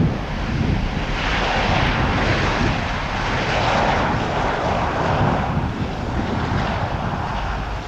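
Jet airliner passing on its landing approach: a steady rushing engine noise that brightens about a second in, with a slowly shifting whoosh, over wind buffeting the microphone.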